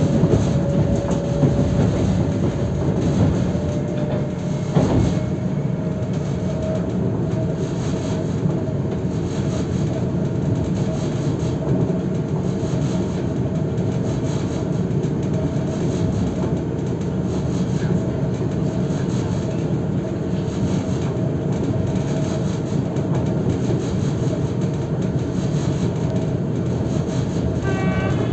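Passenger train running along the line, a steady rumble with wheels clicking over rail joints and a thin whine that rises slightly in pitch. A single knock comes about five seconds in, and a short run of higher tones sounds just before the end.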